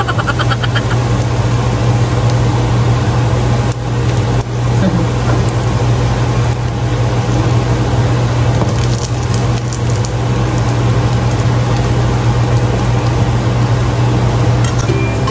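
Pork pieces and chopped onion sizzling in hot oil in a nonstick pan, with a steady low hum underneath and a few light clicks of metal tongs.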